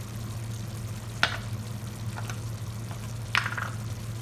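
Chicken cooking in a pan, sizzling faintly over a steady low hum, with two sharp knocks about two seconds apart as the pan is stirred.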